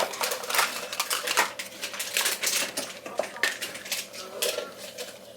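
Dishes and cutlery clinking and clattering as they are handled and set down in a kitchen, many short knocks at an uneven pace.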